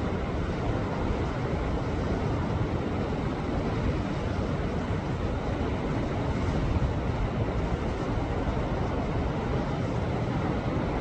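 Sea waves washing against a rocky shore: a steady, unbroken rush of surf with no single crash standing out.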